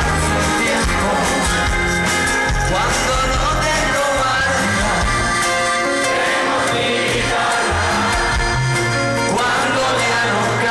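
Live pop-rock band music played loud through a concert sound system, continuous throughout.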